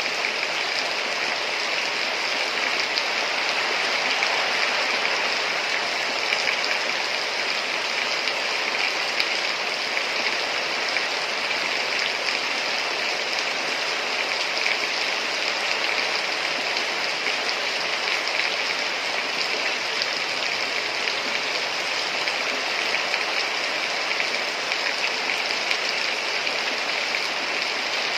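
Heavy rain falling steadily, a dense, even hiss of countless drops with no breaks or changes.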